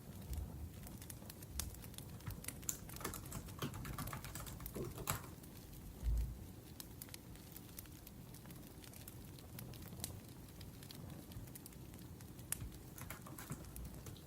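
Laptop keyboard typing in uneven bursts of quick key clicks, over the soft crackle of a wood fire. A low thump about six seconds in.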